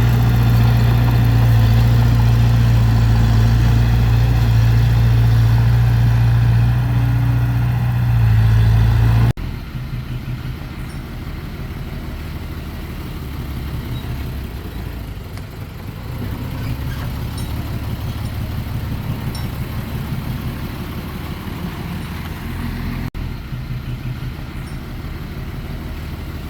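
Heavy diesel engines of earthmoving machines running: a loud steady engine with a strong low hum for the first nine seconds or so, then a sudden change to a quieter, rougher engine sound.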